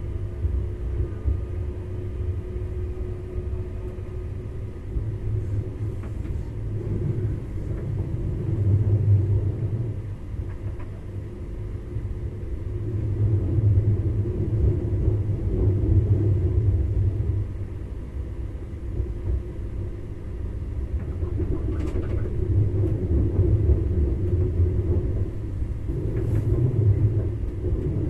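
Electric train rolling out of a station, heard from inside the driver's cab: a low rumble that swells and eases several times over a steady hum, with a few faint ticks.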